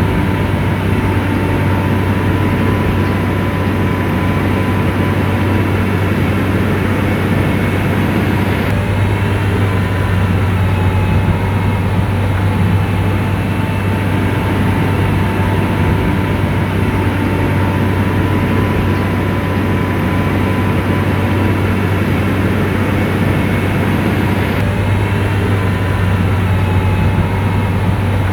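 SDLG motor grader's diesel engine running steadily at work, a deep constant hum with a steady whine above it.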